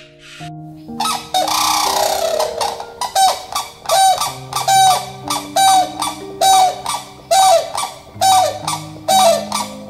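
An animal calling over soft piano music: a longer, rougher call about a second in, then a regular run of short calls, about two a second, each rising and falling in pitch.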